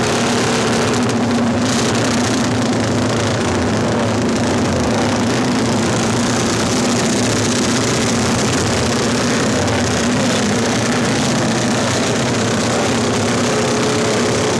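Several classic racing motorcycle engines idling together, a steady, loud mixed engine sound with no single machine standing out.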